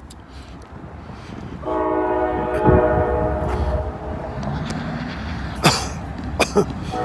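A diesel locomotive's air horn sounds one long steady blast starting about two seconds in and lasting about two and a half seconds, then starts again near the end. A few sharp knocks come shortly before the end, over a low wind rumble on the microphone.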